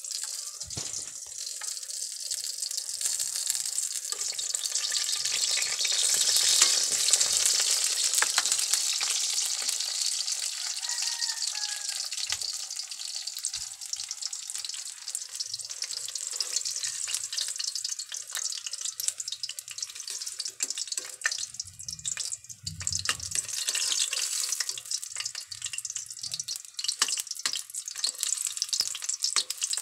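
Eggplant slices frying in hot oil in a wok: a steady sizzle with fine crackles, loudest around six to eight seconds in.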